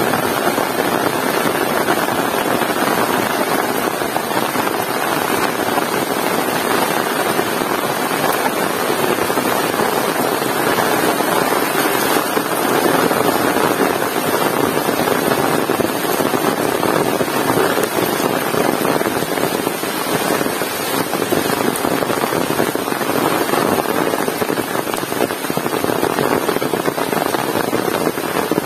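Heavy rain falling steadily in a continuous dense hiss.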